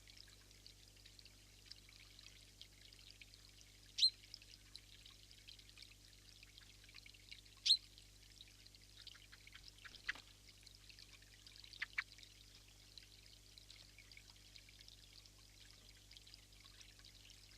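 Two short, sharp single bird calls about four seconds apart, over a steady high hiss, with a few fainter ticks later on.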